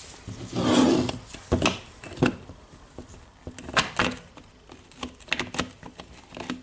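Parts of a Makita DHR202 rotary hammer being handled during reassembly: a scrape early on, then a run of irregular clicks and light knocks of plastic and metal components.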